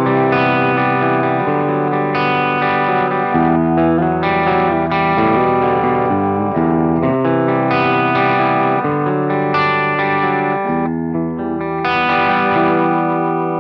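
Electric guitar played through a Crazy Tube Circuits Stardust V3 pedal, which emulates maxed-out blackface Fender amps, into the effects return of a Peavey 5150 amplifier. It plays a run of chords and single notes, then a last chord about twelve seconds in that is left to ring out.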